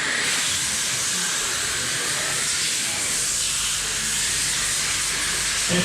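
A pack of electric RC dirt oval cars running laps: a steady hissing whir of brushless motors and tyres on the dirt.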